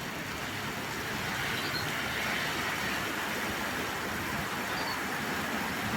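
Rain falling steadily, an even hiss with no single drops or strokes standing out.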